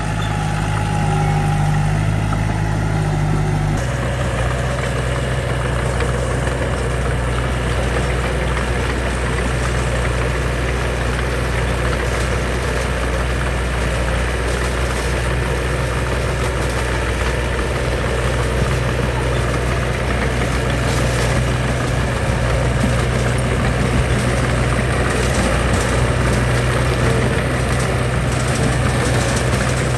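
Diesel engine of a heavy construction machine running steadily with a low hum; the engine note changes abruptly about four seconds in.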